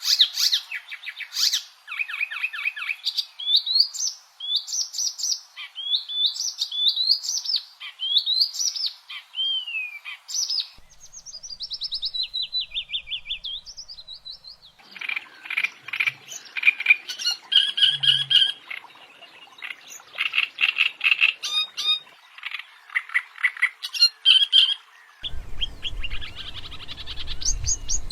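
Songbirds singing in a series of different recordings: quick rising chirps and trills, with the song changing to a different bird about 11, 15, 22 and 25 seconds in. A low rumble runs under the last few seconds.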